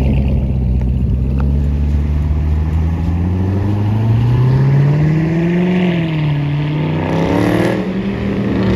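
A car engine running loudly, its pitch climbing and then dropping back about halfway through as the throttle is blipped.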